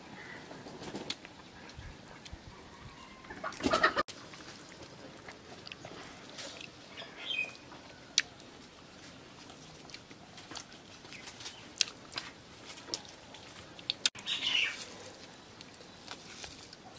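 A few short bird calls, the loudest about four seconds in and two briefer high chirps later, over soft scattered clicks from people eating with their hands.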